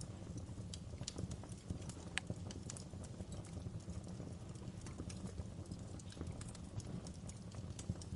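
Campfire crackling: irregular sharp pops and snaps from burning wood over a low, steady rumble of the fire.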